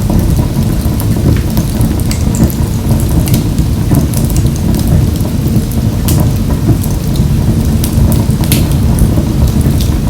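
Wood fire burning in a wood-burning stove: a steady low rumble of flames with frequent irregular crackles and sharp pops.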